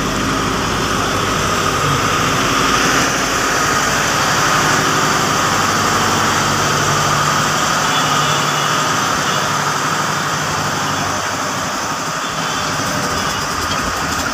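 Commuter train coaches rolling slowly past at close range, wheels running on the rails. The power car's diesel generator runs steadily as it goes by partway through.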